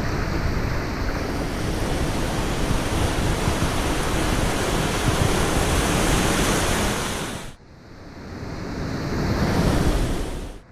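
Ocean surf and wind on the microphone: a loud, dense rushing of breaking waves that cuts off abruptly about seven and a half seconds in, then swells back up.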